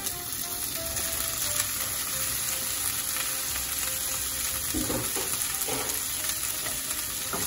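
Frozen green beans sizzling steadily in a frying pan of hot olive oil and garlic, the sizzle rising as they slide in off a cutting board.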